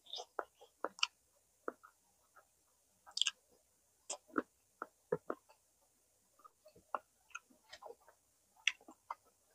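A person chewing smoked chicken close to the microphone: a string of irregular mouth clicks and smacks, several a second, a few louder ones about three and five seconds in.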